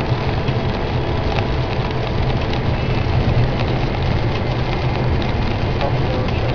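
Steady low rumble of a moving vehicle's engine and tyres on the road, as a dashcam picks it up, with small clicks and rattles scattered through it.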